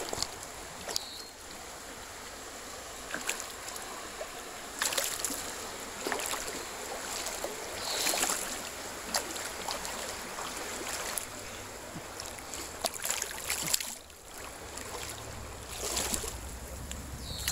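Creek water splashing and sloshing as a hooked bass is fought and brought in, with scattered sharper splashes over a steady wash of water and wind noise.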